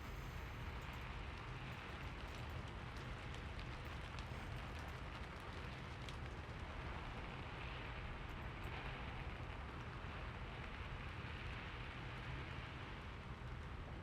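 Steady rain falling, an even hiss with scattered faint drop ticks over a low rumble.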